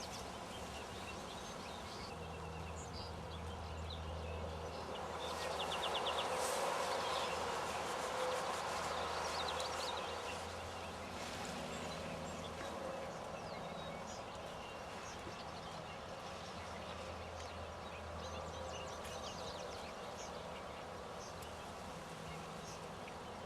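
Outdoor field ambience: scattered short bird chirps and a quick trill about three seconds in, over a low buzzing hum that comes and goes and a soft rushing swell from about five to ten seconds in.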